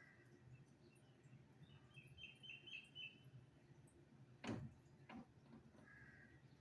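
Faint small-bird chirps: a quick run of about five high notes about two seconds in and soft warbling near the end. A sharp click about four and a half seconds in is the loudest sound, with a softer click just after it.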